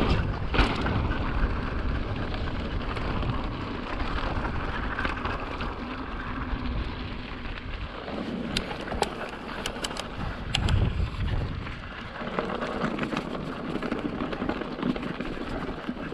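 Mountain bike riding over slickrock: a steady rush of wind and rolling tyres with low rumbling and rattle from the bike, and a cluster of sharp clicks and knocks about halfway through.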